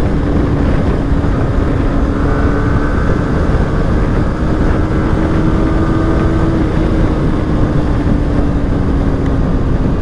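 Yamaha R15 V3's single-cylinder engine running steadily at cruising speed, its note dropping slightly near the end as the bike slows, with wind noise on the microphone.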